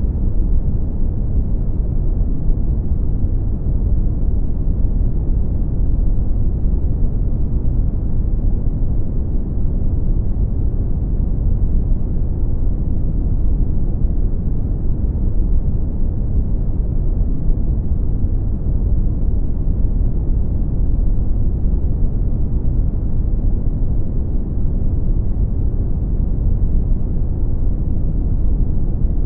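Brown noise: a steady, deep, even hiss-free rumble, heaviest in the lows and falling away toward the highs, with no change throughout.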